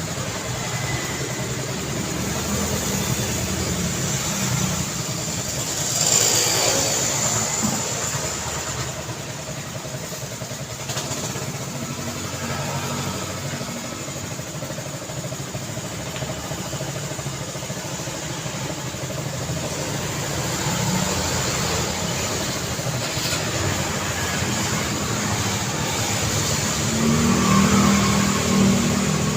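Road traffic: motor vehicles driving past with their engines running, making a steady rumble. One passes loudly about six seconds in, and another engine rises in pitch and level near the end.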